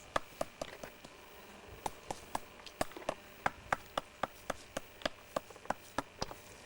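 A steady series of sharp taps or chopping strokes, about four a second.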